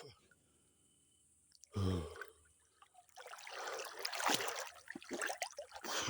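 Water splashing and trickling around a swimmer moving in the water, starting about three seconds in, with a short gasp shortly before it.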